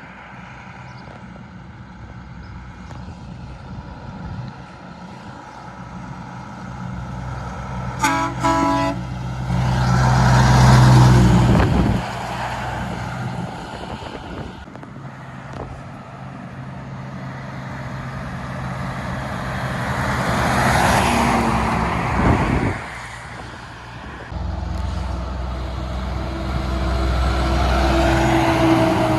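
Heavy trucks passing one after another, their engine and tyre noise swelling and fading three times. About eight seconds in, one gives a short toot on a multi-note air horn.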